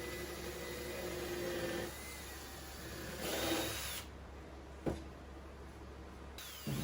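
Power drill running in a few short runs, boring a hole through a small wooden propeller and countersinking it, with one sharp click about five seconds in.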